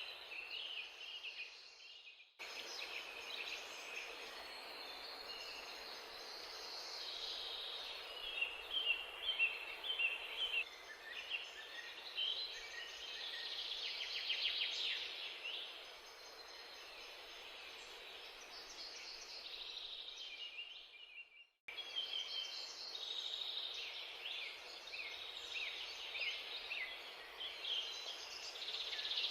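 Many small birds chirping and trilling over a steady background hiss. The sound breaks off abruptly twice, about two seconds in and again after about twenty seconds.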